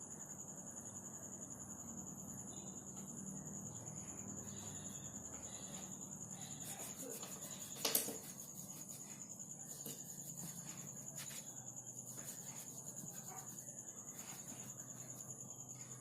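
Crickets chirping in a steady, fast-pulsing high trill, with one sharp knock about halfway through.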